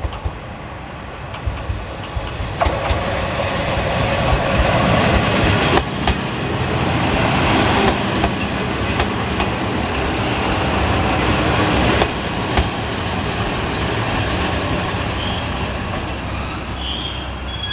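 Kanto Railway KiHa 2300 diesel railcar pulling into a station: its engine and wheels get louder as it rolls in, with sharp clacks over the rail joints, then ease off as it slows. High brake squeals come in near the end.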